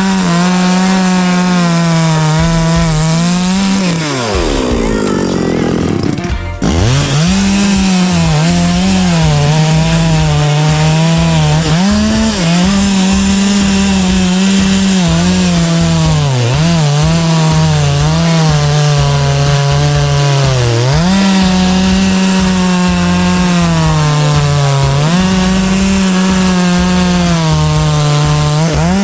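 Chainsaw engine running at high revs while cutting sawtooth oak, its pitch wavering and dipping as the chain bogs under load. A few seconds in, the revs fall away, and after a short break about six seconds in, the saw runs on at full speed.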